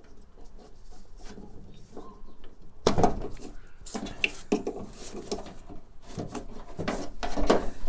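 Irregular knocks, clicks and rattles of parts being handled, with a sharp knock about three seconds in.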